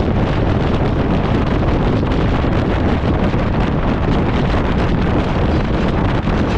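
Strong gale-force wind buffeting the microphone: a loud, steady, rumbling rush with no break.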